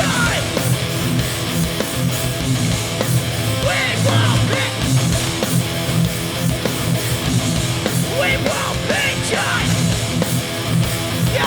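Hardcore punk band playing live and loud, with distorted electric guitars strummed hard over the bass.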